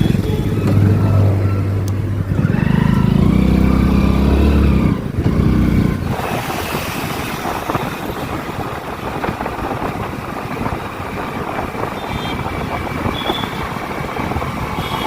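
A motorcycle on the move: the engine runs loudly with its pitch shifting and stepping down during the first six seconds. After that the sound turns into a steady rush of wind and road noise with the engine underneath.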